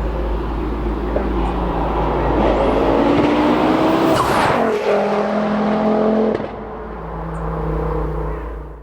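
Stage 3 big-turbo Mk2 Ford Focus RS's turbocharged five-cylinder engine accelerating hard. The revs climb, break briefly at a gear change, climb again, then drop about six and a half seconds in as the throttle is lifted, and the engine runs on quieter.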